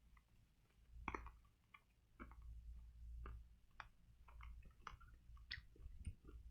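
Faint, scattered mouth clicks of hard candy being sucked and crunched.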